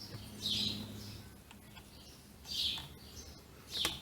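A bird chirping, short high calls repeating every second or two, three in all, over a faint low hum in the first second.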